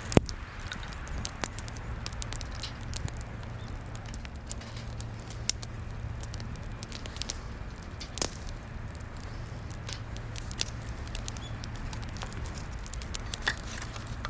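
Wood fire crackling, with sharp pops scattered irregularly, the loudest near the start and about eight seconds in, over a faint steady low hum.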